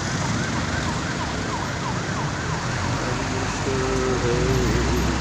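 Emergency vehicle siren sounding in quick rising-and-falling sweeps over steady road traffic noise, then a lower wavering tone. A vehicle engine rumble grows louder about three and a half seconds in.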